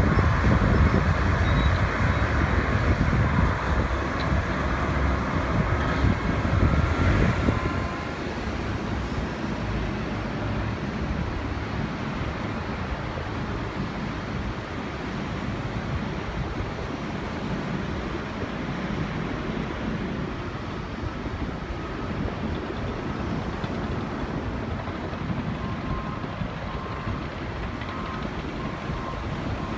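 Diesel engines of heavy earthmoving machinery running on a beach, louder for the first several seconds and then settling to a steadier rumble, mixed with wind and surf noise.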